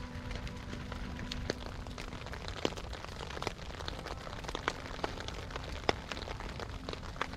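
Wood campfire crackling, with irregular sharp pops over a low steady rush.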